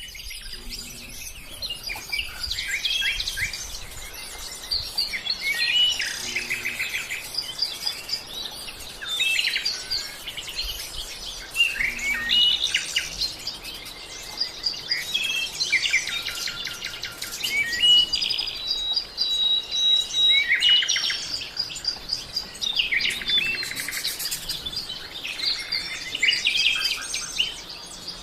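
Several wild birds singing and chirping at once, in a dense, continuous chorus of high chirps, rapid trills and short whistles, with one longer held whistle about two-thirds of the way through.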